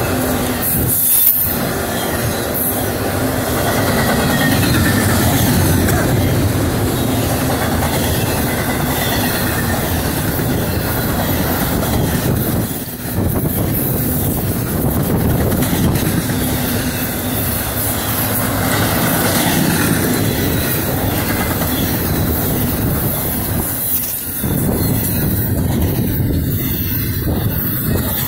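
Intermodal freight train cars carrying highway trailers rolling past close by: a steady, loud noise of steel wheels running on the rails, dipping briefly three times as the train goes by.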